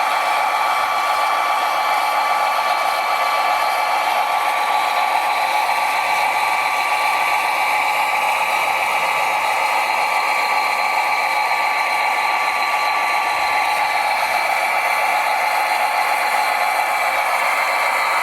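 Electric motors and gearboxes of a radio-controlled construction machine whining steadily, several tones holding a nearly constant pitch.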